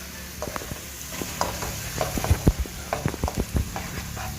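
Utensil stirring a pan of sizzling pork-and-tomato sauce: a steady frying sizzle with irregular knocks and scrapes of the utensil against the pan, getting busier about two seconds in.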